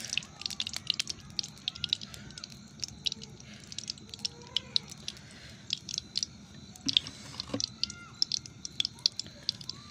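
Cooking oil heating in a pan, crackling and spitting with many irregular sharp pops over a low hiss.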